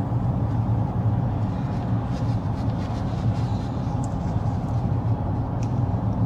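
Steady road noise inside a moving car's cabin: a low, even hum of engine and tyres on the road.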